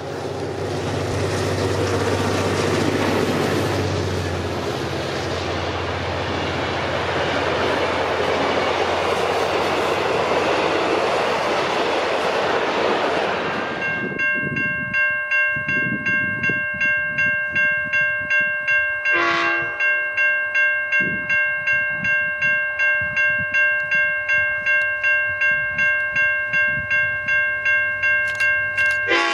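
A train passing close by, its diesel locomotive's engine running under loud wheel and rail noise. About halfway through the sound changes suddenly to a steady high multi-tone whine with a regular clatter about twice a second.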